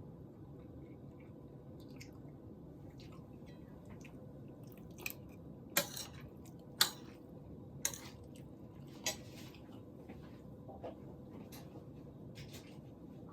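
A handful of sharp, short clicks and taps, mostly between about five and nine seconds in, over a steady low hum.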